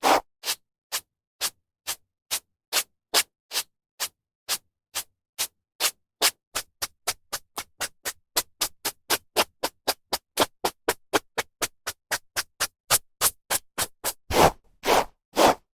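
Hairbrush strokes through hair: short, brisk swishes in a steady rhythm, quickening from about two a second to about four a second. Near the end come a few longer, louder strokes.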